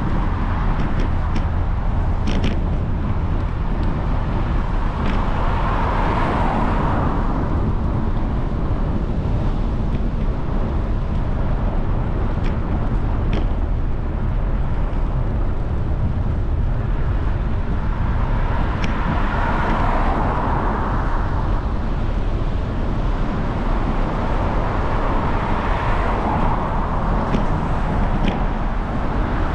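Cars passing on a wet road, their tyre hiss swelling and fading three times, over the steady rush of wind on a moving bicycle's camera microphone. Now and then there is a faint tick.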